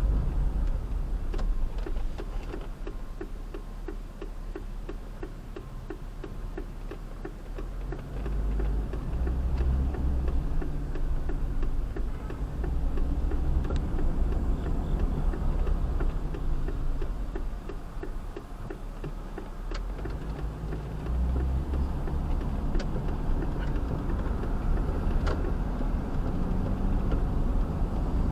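Vehicle engine and road rumble, swelling twice, with a rapid, even ticking during the quieter stretches in between.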